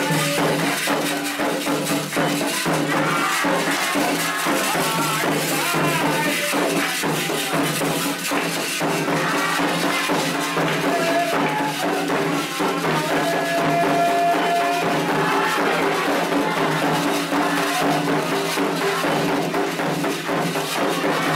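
Candomblé ritual music: atabaque drums and rattling hand percussion keep a steady beat under group chanting.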